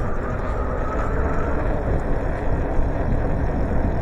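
Wind rush and road rumble on the microphone of a moving bicycle, a steady noisy haze heaviest in the low end.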